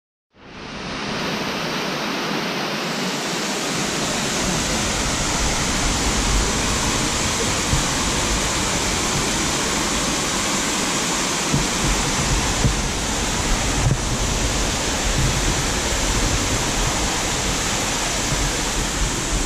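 Waterfall pouring: a steady, even rush of falling water that fades in just after the start and holds level throughout.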